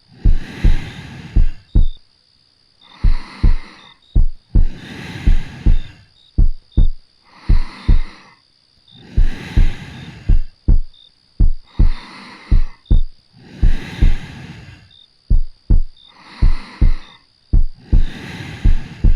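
A heartbeat thumping steadily in close lub-dub pairs, mixed with slow, soft breathing that swells in and out every second or two.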